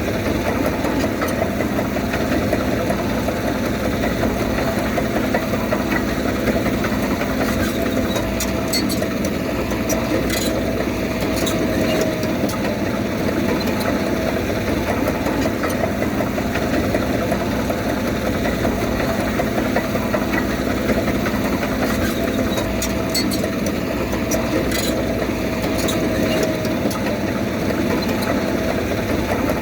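Diesel engine of a Komatsu D31P crawler bulldozer running steadily, with two short spells of faint metallic clicking, the first about a third of the way in and the second near three-quarters.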